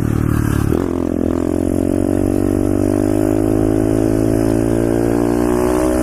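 Pit bike's single-cylinder engine running under throttle while riding. Its note changes about a second in, then holds steady and slowly climbs in pitch.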